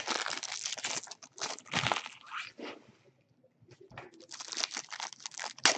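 Plastic card-pack wrappers crinkling and tearing as packs are opened and handled, in two bursts with a short lull a little past the middle.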